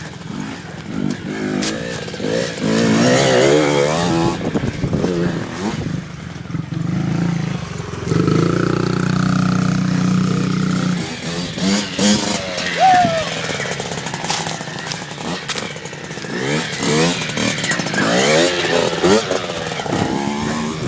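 Dirt bike engine running, its pitch rising and falling as it revs, with a steadier stretch in the middle.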